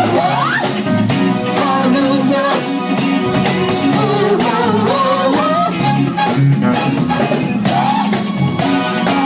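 Live band playing funk with a steady drum beat, bass and melodic lines.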